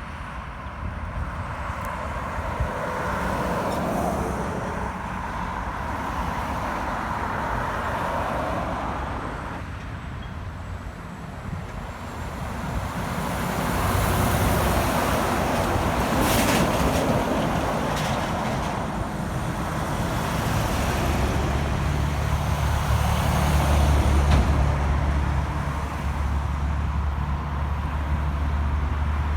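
Heavy trucks driving past on a road: waves of tyre and diesel engine noise rising and fading, with a short high hiss about halfway through. From about two-thirds of the way in, a truck's diesel engine runs with a steady low drone.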